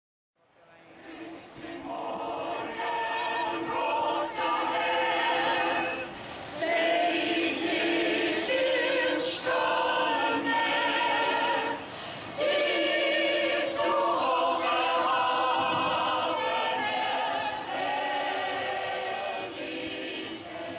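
A choir singing unaccompanied, several voices together in long held phrases with short breaks between them.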